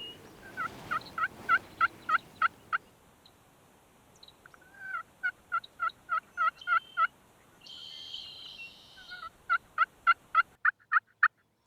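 Turkey yelping: three runs of short, evenly spaced notes, several a second, with a brief raspy stretch between the second and third runs.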